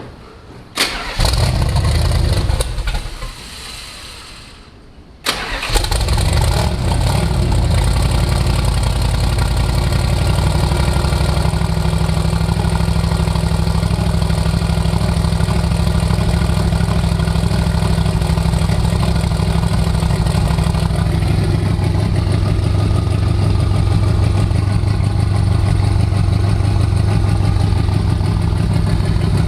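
Twin-turbocharged 440 V8 of a rat rod starting: a first attempt about a second in fades away, then about five seconds in the engine fires and settles into a steady idle.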